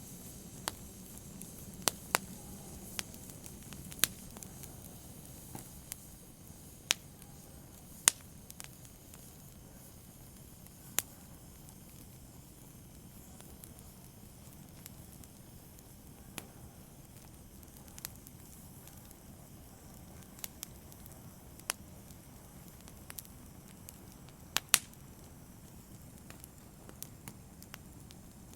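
Wood fire burning, with sharp crackles and pops at irregular intervals over a low, steady rush of flame.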